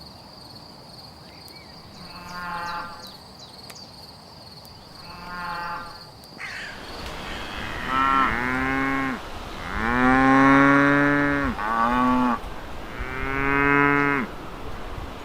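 Cattle mooing: two faint moos, then four loud, drawn-out moos close together in the second half.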